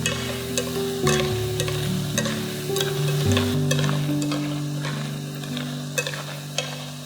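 Sweet potato snacks deep-frying in hot oil, sizzling with scattered sharp crackles and pops, over soft background music with held notes.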